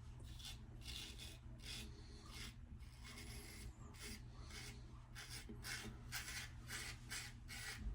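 Eagle lather-catcher safety razor with a trimmed-down Personna GEM blade scraping through lathered stubble in short repeated strokes, about two a second: the blade cutting whiskers on the first pass.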